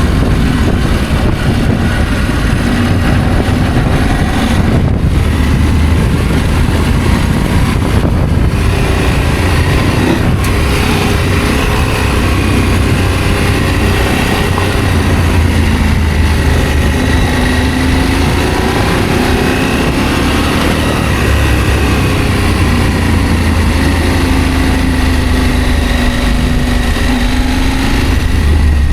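Adventure motorcycle engine running while riding, its pitch gently rising and falling with the throttle over a steady low rumble.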